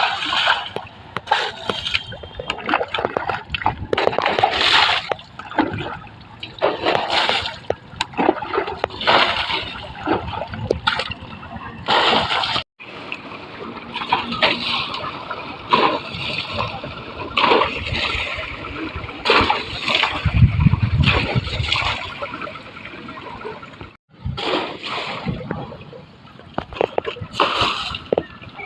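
Water being splashed and thrown, in irregular surges every second or two, as an old tractor is washed down.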